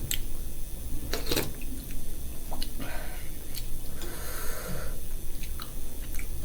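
A person chewing and eating noodles close to the microphone: scattered short wet mouth clicks, with a short noisy sound about four seconds in.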